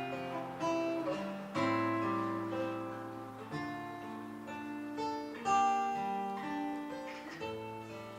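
Acoustic guitar playing the instrumental introduction to a song, plucked chords struck every second or two and left to ring out.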